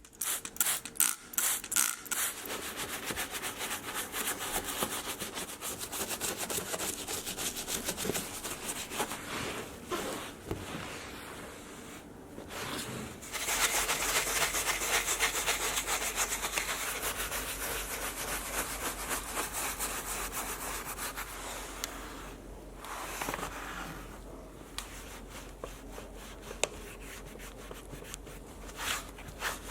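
Rapid back-and-forth scrubbing strokes by hand on a car's surface during detailing, pausing briefly twice.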